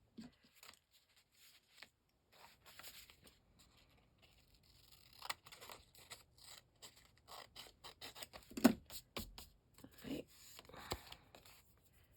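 Scissors cutting off excess paper in a series of uneven snips, with paper scraping and rustling as it is handled; a few sharper snips come in the second half.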